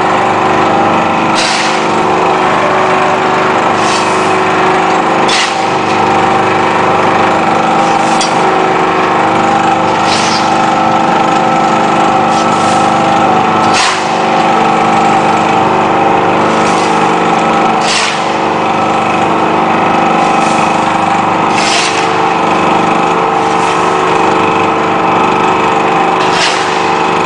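Y81-130 electro-hydraulic scrap-metal baling press running, with a steady mechanical hum and whine from its power unit. Sharp metallic knocks and clanks come every few seconds.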